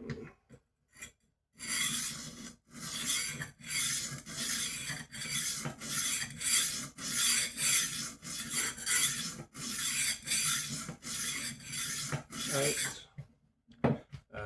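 Rolling knife sharpener working on a kitchen knife: the abrasive disc is rolled back and forth along the blade's edge, which is held at a set angle on a magnetic block. It grinds in repeated strokes about one a second, starting about a second and a half in and stopping shortly before the end.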